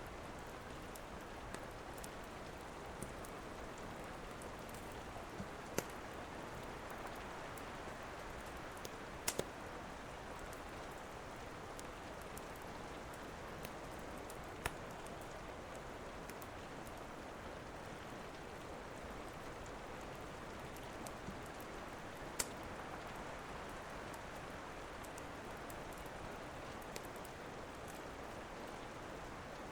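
Steady rain falling, with occasional sharp crackles and pops from a wood fire, a couple of them in quick succession.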